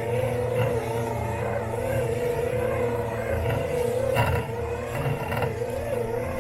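Robot lawn mower's electric motors running close up, a steady whine that wavers slowly in pitch over a low hum, with a short knock about four seconds in and another about a second later.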